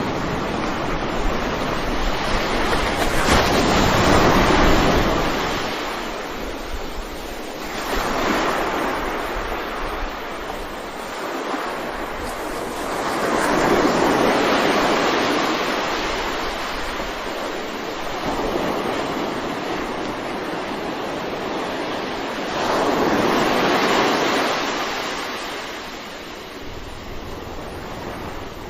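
Sea waves surging in and washing back, swelling loudly about four times and easing off in between.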